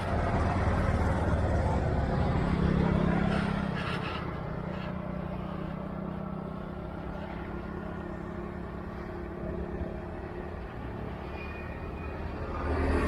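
A motor vehicle running, a steady low rumble with an engine hum. It is louder for the first few seconds, settles lower, and swells again near the end.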